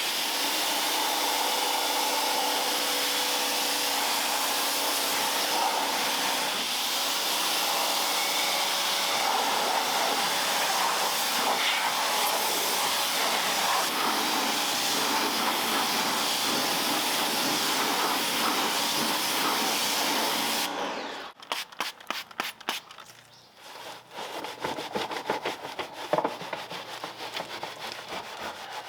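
A steady, loud hiss with a faint machine hum for about twenty seconds, stopping suddenly. Then a brush scrubbing a wheel in quick, rhythmic back-and-forth strokes.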